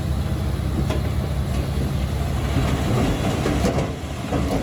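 Bulldozer diesel engine running steadily, with irregular metallic clanking and rattling, as of steel tracks and blade, from about a second in.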